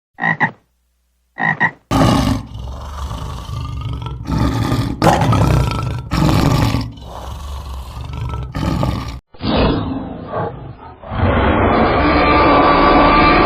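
Two short frog croaks, then from about two seconds in a large animal roaring in long, loud calls.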